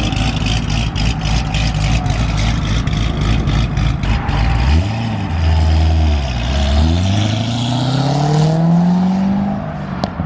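Car engine with a lumpy, choppy cammed idle, pulsing unevenly. About five seconds in it is revved up and back down, then its pitch climbs steadily for about three seconds.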